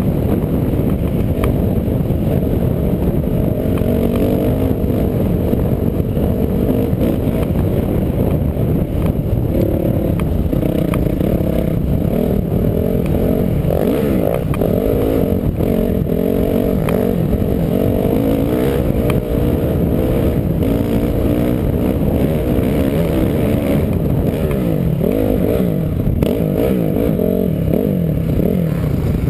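Off-road vehicle engine running under way, its speed rising and falling continuously, with some light rattling.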